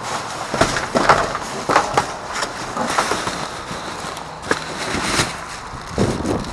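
Rummaging through trash in a dumpster: irregular knocks, clatters and rustling as bags, boxes and bottles are moved and dropped.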